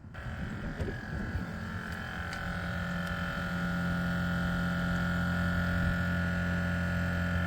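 Train-horn air compressor on a pickup truck running, called the generator, refilling the horn's air tank: it comes up about a second in, then holds a steady hum.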